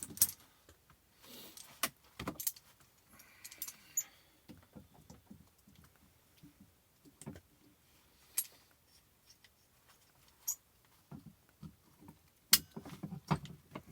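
Scattered sharp metal clicks and clinks, with brief faint scraping, as locking pliers (vise grips) grip and work a broken handle piece out of an axe head's eye.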